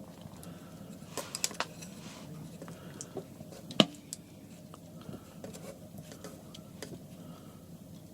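A few light clicks and knocks over a low steady background: a quick cluster about a second in and one sharper click a little before the middle.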